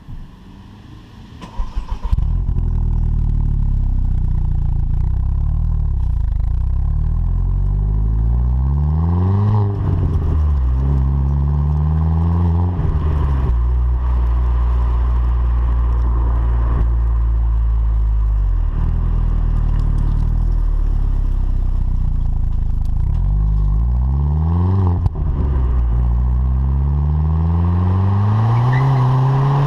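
VW Polo 9N3 GTI's 1.8-litre turbo four-cylinder on the stock exhaust, cranked and starting about two seconds in, then idling steadily and revved up and back down several times.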